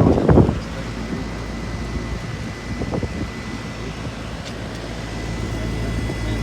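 A 1989 Carrier Tech2000 heat pump's outdoor unit running steadily in heat mode: a low compressor-and-fan hum with a thin, steady high whine over it. A burst of wind noise on the microphone fills the first half second.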